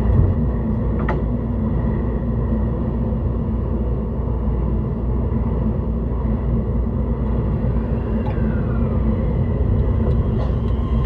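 E131-600 series electric multiple unit running at speed, heard from inside the car: a steady low rumble of wheels on rail, with a couple of light clicks and a faint gliding tone about eight seconds in.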